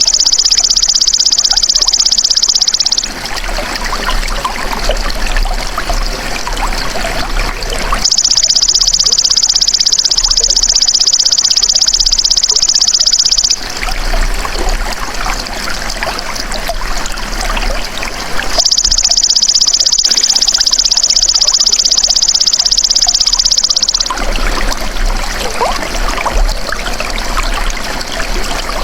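Belalang emas (golden grasshopper) insect calling in three long, high, buzzing trills, each about five seconds long with pauses of similar length between them. Trickling running water runs under the calls and fills the pauses.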